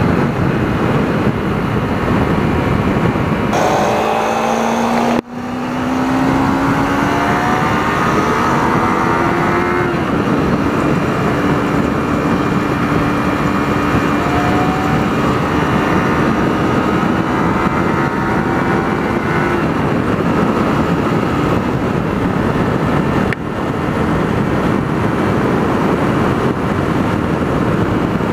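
Kawasaki Ninja 300 parallel-twin engine under way with heavy wind rush. The engine note climbs as it accelerates, with a brief drop about five seconds in, then holds nearly steady.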